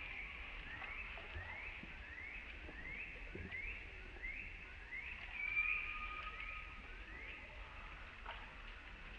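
A bird calling: a steady series of short rising chirps, about two a second, with one longer whistled note a little past halfway.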